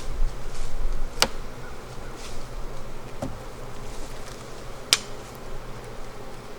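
Honeybees from a strong colony buzzing steadily around an open hive during an inspection. Two sharp clicks cut through, about a second in and near five seconds.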